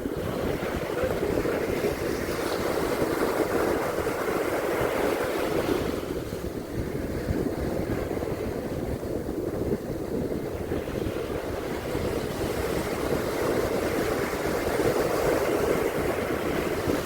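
Ocean surf washing continuously onto a beach, swelling and easing with a lull about six seconds in, with wind buffeting the microphone.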